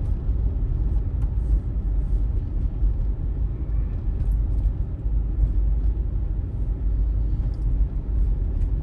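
Steady low engine and road rumble inside a moving vehicle's cabin.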